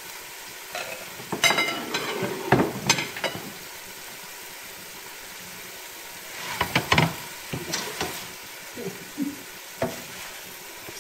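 Chicken and purple rice noodles sizzling steadily in a stainless steel sauté pan, with two bunches of sharp clinks and knocks, a couple of seconds in and again past the middle.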